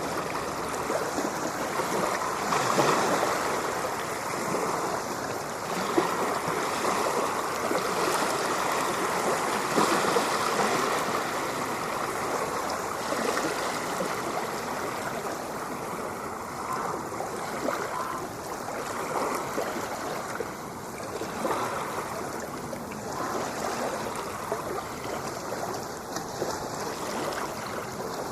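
Ocean waves washing ashore: a continuous rush of churning water that swells and eases every few seconds.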